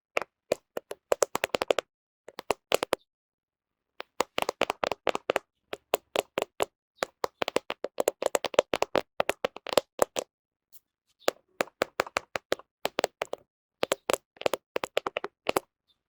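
Fingernails tapping rapidly on a camera: quick runs of sharp clicks, broken by short silent pauses.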